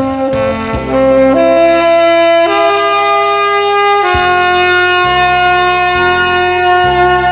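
Saxophone playing a slow melody over a backing track with bass. The line climbs in a few steps, then settles on a long held note.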